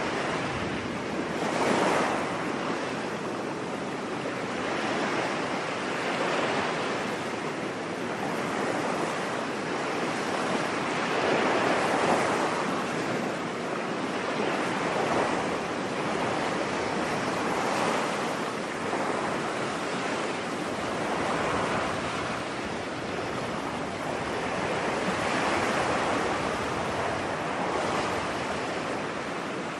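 Ocean surf washing onto a beach: a steady hiss of breaking waves that swells louder every several seconds as each wave comes in.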